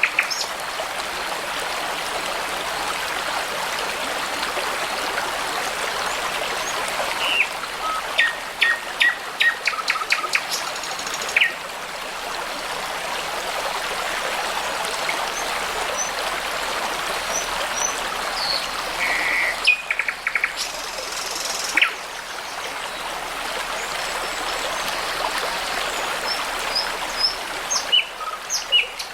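Babbling brook running steadily, with songbirds singing over it in short bouts of chirps and whistles, three times.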